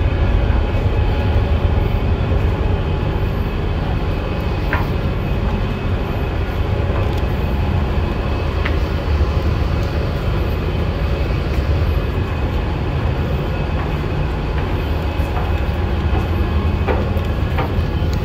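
Heavy engine machinery of a car ferry running with a steady low rumble, with a few faint clicks and knocks.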